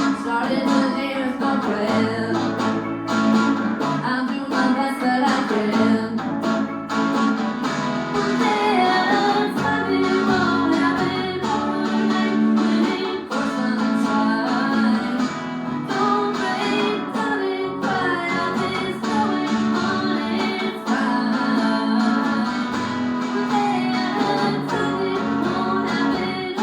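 Live band playing a song: strummed acoustic guitar under a sung melody.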